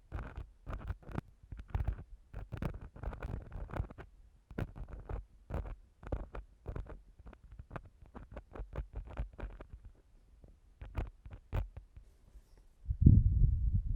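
An ear-cleaning tool scratching and scraping right on a microphone in quick, irregular short strokes, an ear-cleaning ASMR sound. About a second before the end, a louder, low, muffled rubbing starts.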